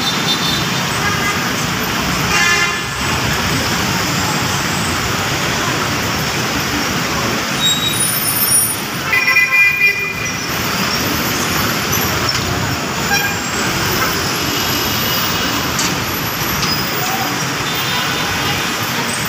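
Busy city road traffic, a dense steady roar of passing vehicles, with horns tooting several times: briefly about two seconds in, and a longer blast about nine to ten seconds in.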